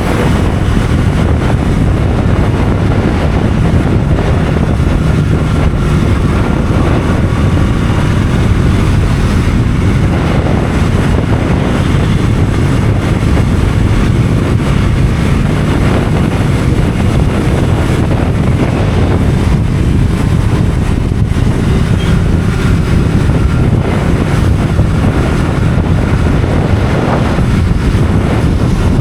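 Motorcycle on the move: steady wind noise on the microphone over the running engine.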